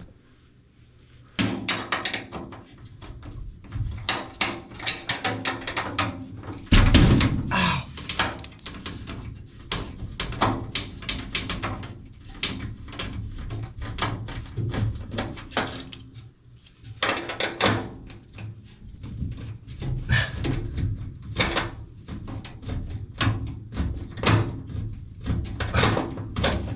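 Repeated knocks, clanks and rattles of hands and a wrench working on a washing machine's sheet-metal pedestal drawer as its last fastening nuts are taken off. A heavy thump comes about seven seconds in.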